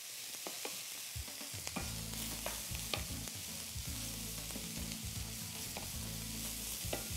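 Shredded cabbage and ground pork sautéing in a nonstick skillet: a soft, steady sizzle while a wooden spatula stirs and scrapes the mix, with scattered light clicks of the spatula against the pan. A low steady hum comes in about a second and a half in.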